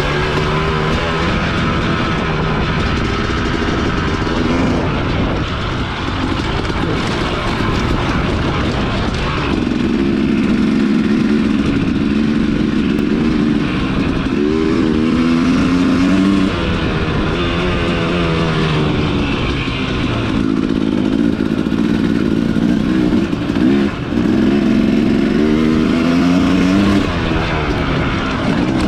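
Dirt bike engine running hard, its pitch rising and falling again and again as it revs up and drops back between gears.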